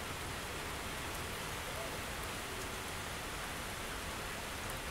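Steady rain falling in a small thunderstorm: an even hiss with no thunderclap.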